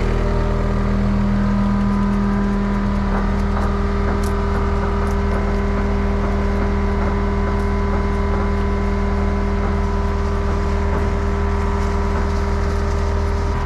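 A heavy-equipment engine idling steadily, with an even, unbroken hum.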